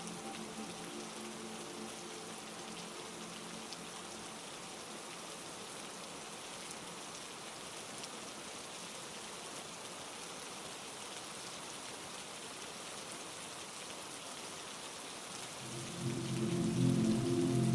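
Steady heavy rain falling. A low held synth chord fades out just after the start, and a louder low chord swells in near the end.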